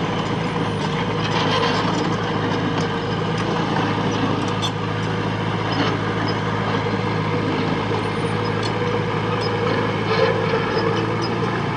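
Heavy construction machine's diesel engine running steadily, with scattered metallic clanks and squeaks.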